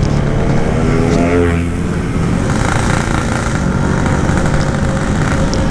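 Yamaha RX-King two-stroke single-cylinder engine pulling weakly at low revs under gentle throttle, with a broken reed-valve petal sapping its power. The revs rise a little about a second in, then hold steady.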